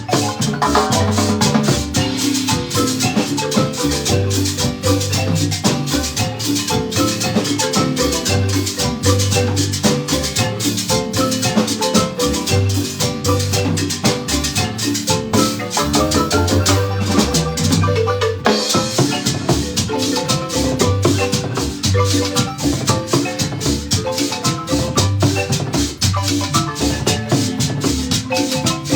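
Marimba band playing a lively dance tune, mallets striking the wooden bars over a pulsing bass line, with percussion keeping a steady beat.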